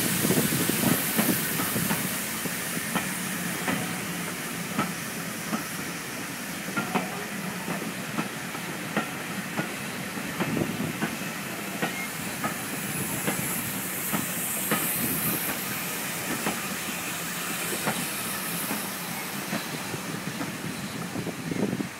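Vintage railway carriages of a steam-hauled train rolling past, their wheels clicking over the rail joints in a steady slow rhythm over a continuous rumble. Steam hissing at the start.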